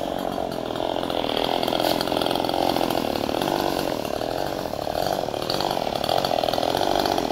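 Ecolite EC6800 58 cc two-stroke chainsaw running at high speed, holding a steady note with slight rises and falls.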